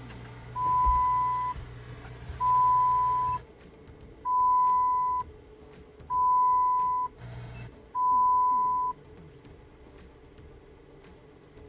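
Five long electronic beeps at one steady pitch, each about a second long and evenly spaced about two seconds apart, with a low hum and hiss behind the first two that cuts off about three and a half seconds in.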